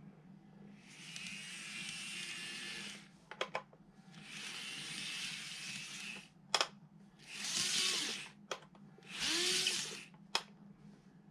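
Plastic packaging of an N-gauge model train set being handled: four rustling, scraping bursts of a second or two each, with sharp plastic clicks between them.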